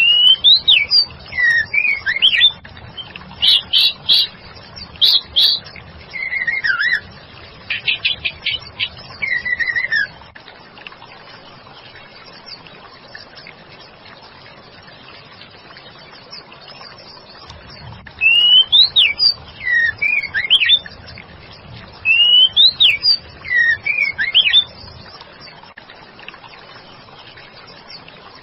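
Female white-rumped shama singing: quick whistled notes that sweep up and down, mixed with short rattling notes, for about ten seconds. Then a pause of about eight seconds before a second burst of song.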